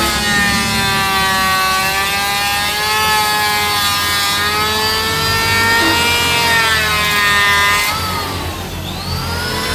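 Electric woodworking power tool running with a steady motor whine, its pitch wandering slightly as it works the mahogany. About eight seconds in the pitch drops sharply and then climbs back up near the end, as the motor bogs under load and recovers.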